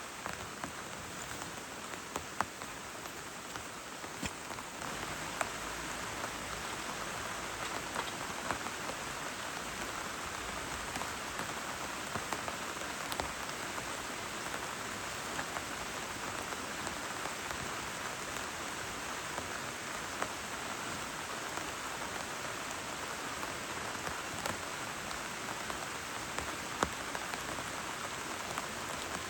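Steady rain falling, with scattered sharper drop hits standing out; it grows a little heavier about five seconds in.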